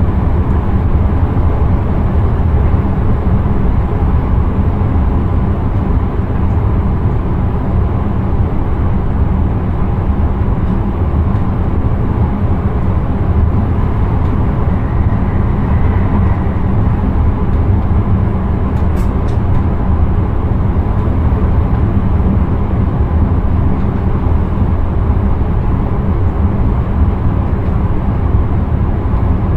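Steady running noise of an intercity train, heard from the driver's cab: a low rumble of wheels on rails with a faint steady whine on top. A few faint ticks come about two-thirds of the way through.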